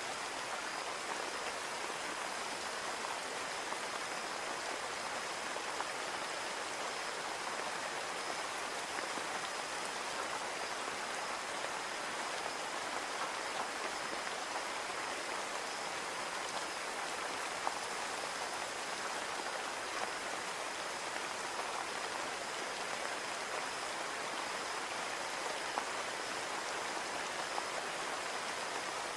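Steady rain falling on a window pane, an even patter with scattered individual drop ticks and a faint steady high tone running under it.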